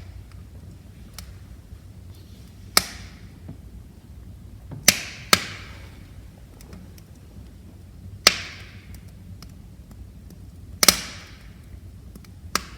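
Wood fire burning in a fireplace, crackling: about six sharp, loud pops at irregular intervals, with fainter ticks and clicks between them over a low steady background.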